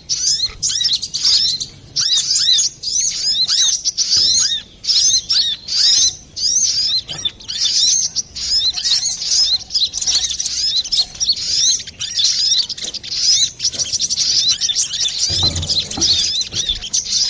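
Brown-throated sunbird (kolibri kelapa) singing a rapid, unbroken string of high, arched chirps. There is a brief low thump about fifteen seconds in.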